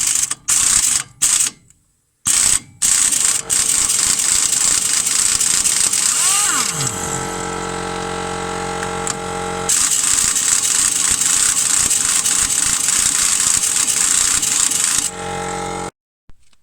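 Pneumatic impact wrench on the 16 mm nut of a Fiat Doblò's anti-roll bar link: a few short trigger bursts, then long runs of hammering with a steadier whining stretch in the middle, stopping suddenly near the end. The link's centre stud turns with the nut, so the nut keeps spinning instead of coming off.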